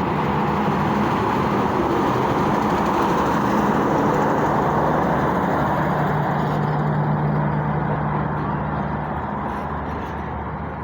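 Train of passenger coaches being shunted into a station platform: a locomotive engine running steadily with a low hum under a continuous rolling noise, easing off slightly near the end.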